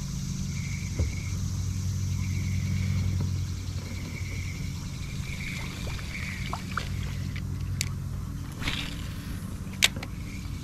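A kayak's small motor humming steadily, easing off a little about three and a half seconds in, with insects chirping in a steady pulse and a few sharp clicks, the loudest near the end.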